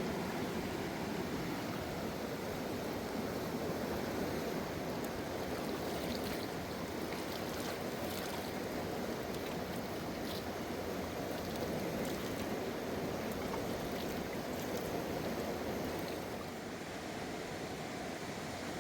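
Mountain river rushing over rocks: a steady, full roar of fast water.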